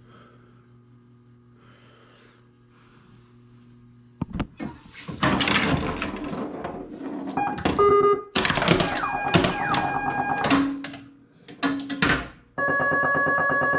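Stern Trident pinball machine in play: a faint low electrical hum for about four seconds, then flippers, solenoids and the ball clattering, mixed with short electronic beeps and tones from its SB-100 sound board. About a second before the end a steady buzzy tone from the sound board starts.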